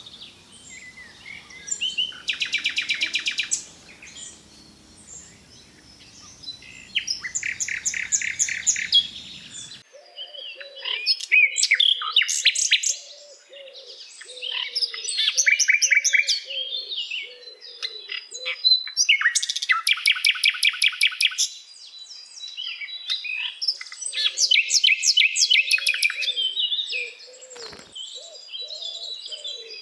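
Sikatan londo singing: a varied songbird song of fast rattling trills and sharp chirps in phrases of one to two seconds, with softer twittering between them. A low wavering warble sits beneath the song in the second part.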